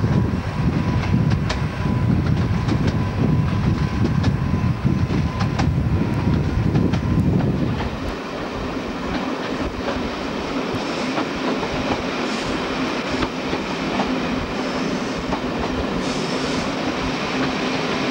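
Diesel-hauled train running. For the first eight seconds it is heard from aboard a coach: a heavy low rumble with the clickety-clack of wheels over rail joints. It then switches to a steadier, quieter diesel engine drone as the locomotive and its coaches pull away.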